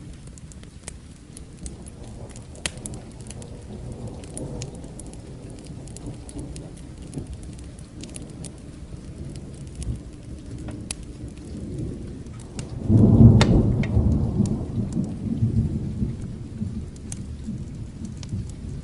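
Steady rain with scattered sharp crackles of a wood fire, under low rolling thunder. About thirteen seconds in a loud thunderclap breaks and rumbles away over the next few seconds.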